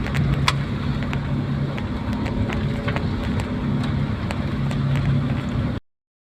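Vehicle running on the road: a steady engine hum and road noise, with scattered sharp ticks. The sound cuts off abruptly near the end.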